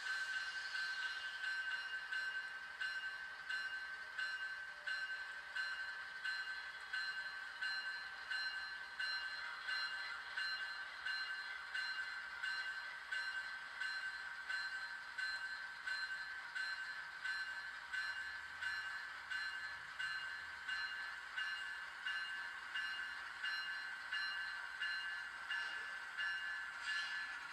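Railroad grade-crossing warning bell ringing steadily, an even ding about one and a half times a second.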